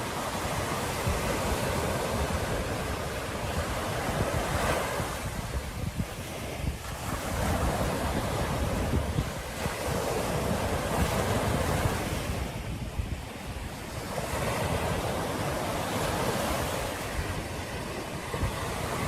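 Ocean surf washing ashore, swelling and easing every few seconds, with wind rumbling on the microphone.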